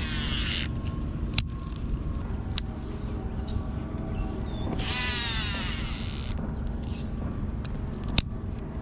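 Fishing reel spool whirring as line pays out during a cast, the whir falling in pitch as the spool slows; this happens twice, once right at the start and again about five seconds in. Sharp single clicks come in between.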